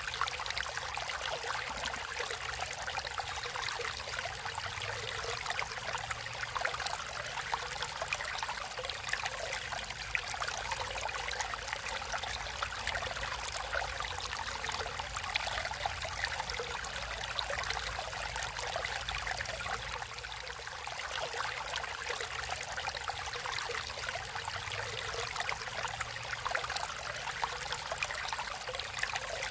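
Water flowing steadily over rocks in a natural stream, a continuous burbling and splashing with a low rumble underneath.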